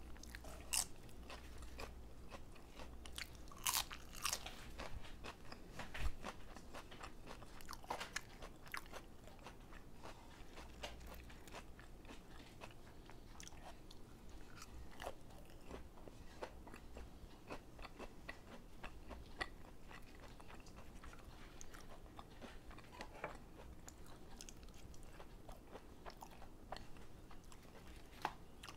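A person chewing and crunching food close to the microphone, with many small crisp crunches and mouth sounds, the loudest few in the first six seconds.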